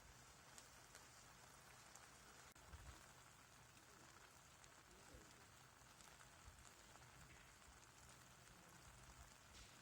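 Near silence: a faint steady hiss with a few small scattered ticks.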